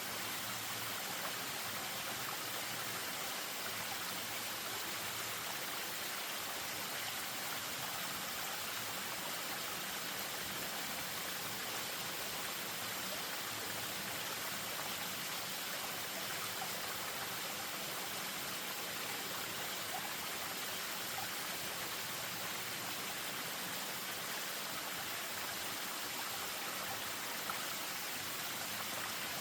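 Spring-fed stream running over a small waterfall: a steady, even rush of moving water.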